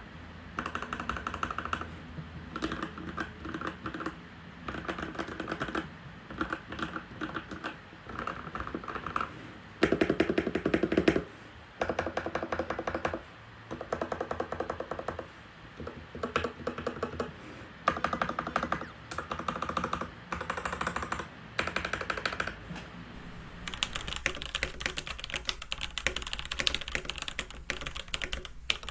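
Typing on a Keychron C1 mechanical keyboard with factory-lubed Gateron G Pro Red linear switches and high-profile ABS doubleshot keycaps in a plastic case, on a desk mat. Quick runs of keystrokes come in bursts a second or two long with short pauses. Near the end the clatter turns brighter and hissier.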